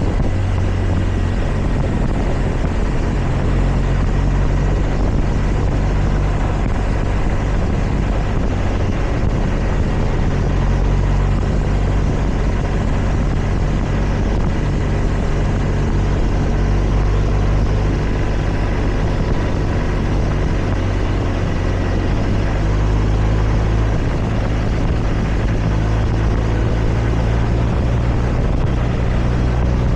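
Motorcycle engine running steadily while riding, with small shifts in pitch and a steady rush of noise over it.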